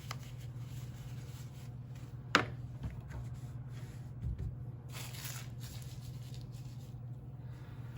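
Hands handling unboxed accessories and packaging: soft rustling with a sharp click about two seconds in, over a steady low hum.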